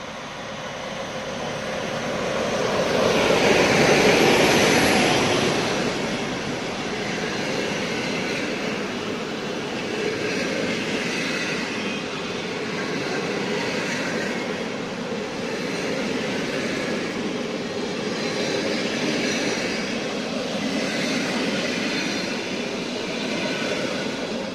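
Diesel-hauled passenger train passing on a curve. The noise rises to its loudest about four seconds in, then the long run of coaches rolls by with a steady rumble of wheels on rail that swells every couple of seconds, fading near the end.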